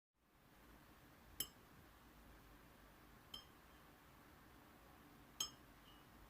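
Three light clinks, about two seconds apart, each with a short high ring, over faint room tone; the middle one is the weakest.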